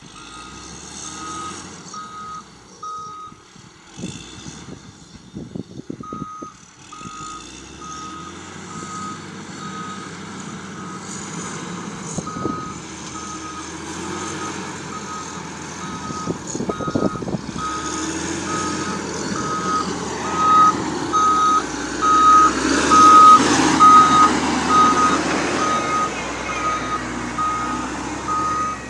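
Heavy construction vehicle reversing, its back-up alarm giving a steady, evenly spaced single-tone beep over a diesel engine's rumble. The beeping pauses for a few seconds early on, then resumes and grows louder as the machine comes closer in the second half.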